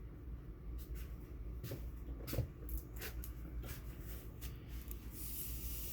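Scattered light clicks and knocks of things being handled, the loudest about two and a half seconds in, over a low steady hum, with a short hiss near the end.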